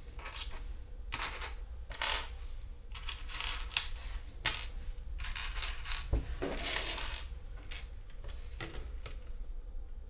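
Small plastic LEGO pieces clicking and rattling against each other as they are handled and pressed together, in a quick irregular run of little clicks and brief rattles.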